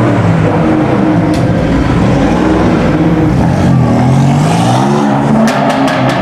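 High-performance car engines revving and accelerating in a tunnel, the engine note climbing and dropping with the revs, with a few sharp exhaust cracks near the end.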